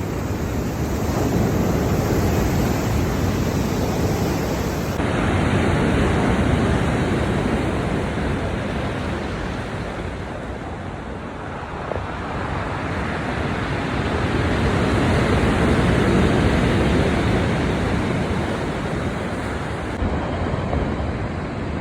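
Sea surf washing onto a beach, the noise swelling and easing over a few seconds at a time, with wind rumbling on the microphone.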